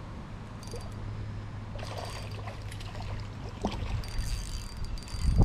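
Flowing river water with splashing and light clicks while a small bass is reeled in on a light panfish rod. A few heavy thumps of handling come near the end.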